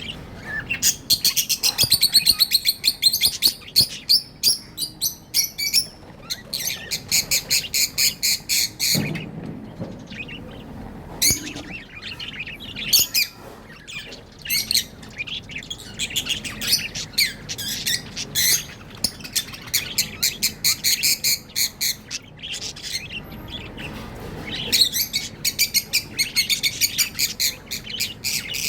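Budgerigars chirping in rapid runs of high chirps, with short breaks between the runs.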